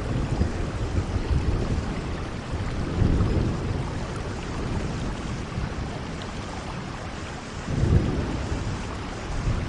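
Steady rainfall hiss, with low rumbling swells lasting a second or two about three seconds and eight seconds in.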